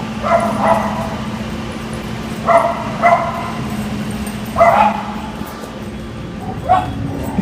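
A dog barking and yipping in short bursts, a few every two seconds or so, over a steady low hum.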